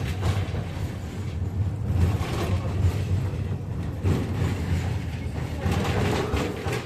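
KTM-5M3 tram car running on the rails between stops, heard from inside the car: a steady low rumble with brief rattling surges now and then.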